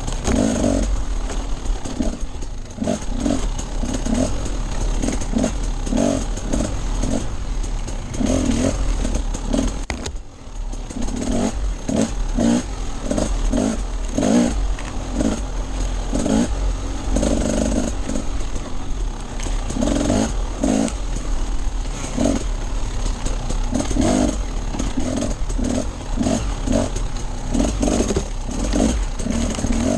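Off-road dirt bike engine running hard in short, repeated throttle bursts as it is ridden over rough trail, with clattering from the bike and a steady low rumble underneath. The engine eases off briefly about ten seconds in.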